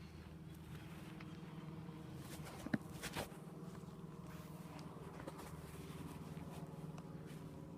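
A faint, steady engine hum, with a few sharp clicks and rustles of handling noise about three seconds in.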